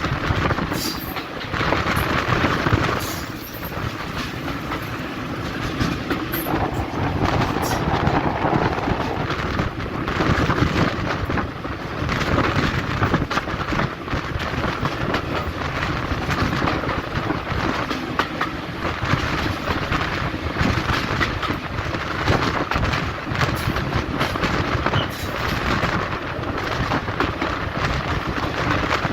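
Heritage diesel train running on the line, a steady noisy rumble with frequent short clicks and knocks throughout.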